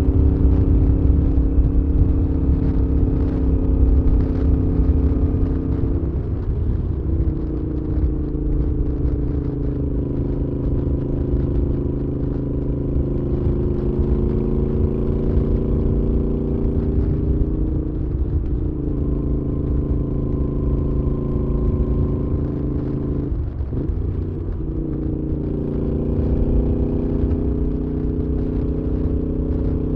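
Moto Guzzi V7's air-cooled transverse V-twin running under way through a Mistral aftermarket exhaust, a steady engine note at cruising revs. The note breaks briefly and resettles about three times, around a quarter, three-fifths and four-fifths of the way through, as with gear changes.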